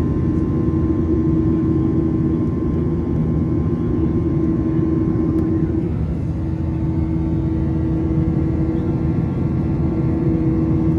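Boeing 737-900ER's CFM56-7B jet engines droning steadily, heard inside the passenger cabin as a low rumble with a few steady whining tones. The strongest tone breaks briefly about halfway through, then carries on.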